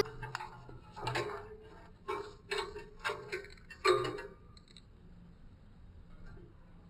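A pet budgie's beak tapping and pecking: about five light, irregular taps in the first four seconds, then quiet.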